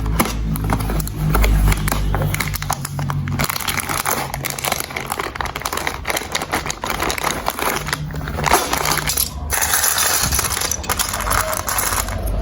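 Many marbles clicking and rattling as they roll through a plastic building-block marble run, a dense, irregular clatter that thickens into a near-continuous rattle after the first few seconds, with a low hum underneath early on.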